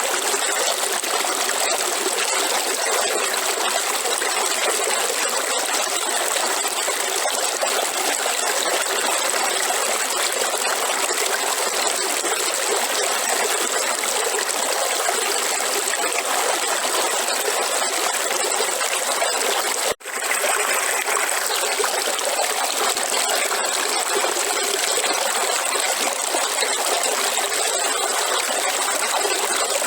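River water flowing steadily over rocks, an even rush with no break in character. It cuts out for an instant about twenty seconds in, then resumes unchanged.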